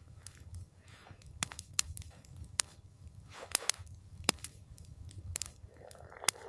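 Campfire crackling: irregular sharp snaps and pops of burning wood over a low, steady rumble of the fire.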